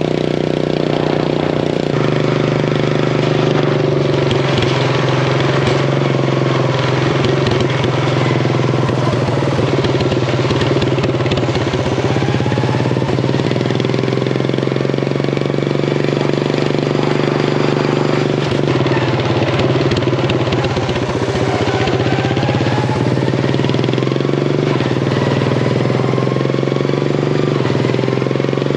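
Craftsman riding mower's engine, with a swapped carburetor and an open header, running steadily under load as the race mower is driven. Its pitch steps up about two seconds in and dips briefly around two-thirds of the way through.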